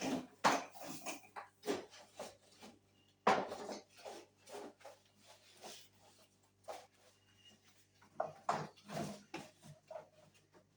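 Irregular knocks and clatter of kitchen containers and fridge parts being handled and set down, over a steady low hum.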